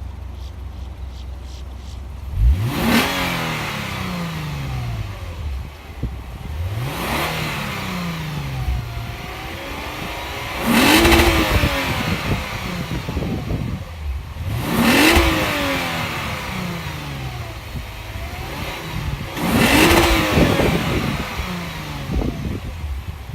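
Lexus RC 350's 3.5-litre V6 revved five times while parked, blipped roughly every four seconds. Each rev climbs quickly and falls back to idle.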